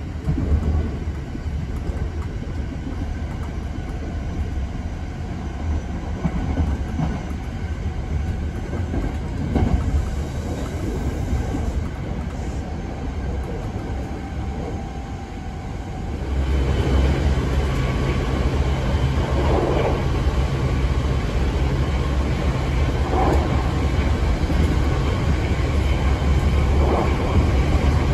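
Running noise heard inside a Hankyu 8200 series electric commuter train at speed: a steady rumble of wheels on rails that becomes louder and deeper about sixteen seconds in, with a few faint knocks after that.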